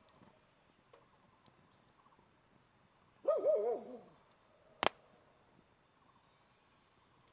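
An owl calling once about three seconds in: a short, wavering, quavering call under a second long. About a second later comes a single sharp crack.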